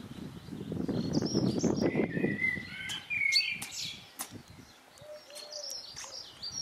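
Small garden birds chirping and twittering, with a rough low rustling or splashing noise for a couple of seconds near the start.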